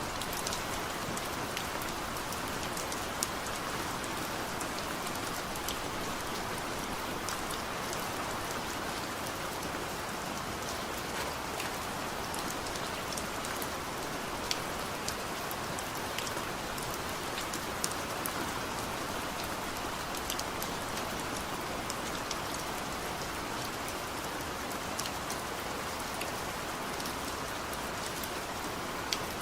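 Steady heavy rain falling, a dense even hiss with individual drops ticking sharply on a hard surface throughout; no thunder.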